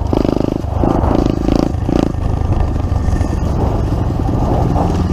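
Pit bike engine running steadily while riding.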